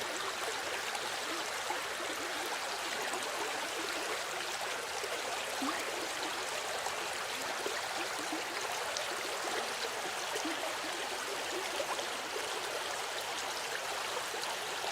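A stream of water flowing steadily, an even rushing with small trickling ticks.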